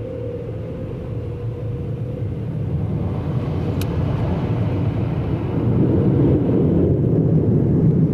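Truck wash machinery running around the vehicle, a loud steady rumble that grows louder about halfway through, with one sharp tick a little before the middle.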